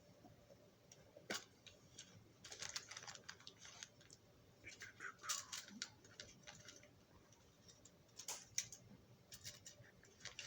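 Faint, scattered clicks and light metallic rattling from small drill bits and tools being handled and tried in a hole, with a brief scrape about five seconds in.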